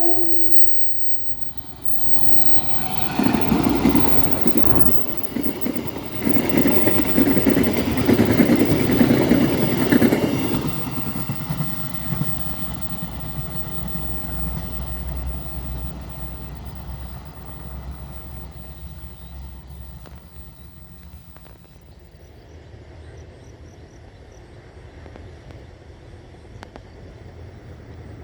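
A train horn chord cutting off right at the start. Then a train passing at speed, with loud, rapid clattering of wheels over the rail for about eight seconds, fading to a low rumble as it draws away.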